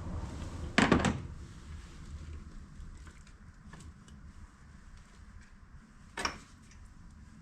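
Tools or engine parts being handled: a loud clattering knock about a second in, a shorter knock near the end, and small ticks between.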